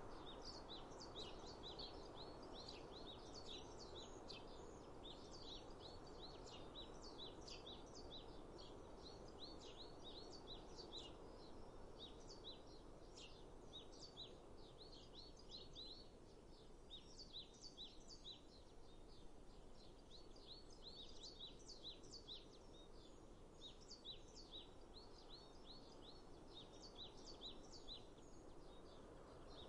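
Faint chorus of small birds chirping rapidly and continuously, several short high calls a second, over a soft steady rushing noise underneath.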